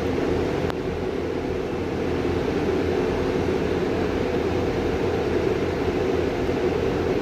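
Class 222 Meridian diesel multiple unit's underfloor diesel engines running with a steady drone as the train departs, with a single brief click just under a second in.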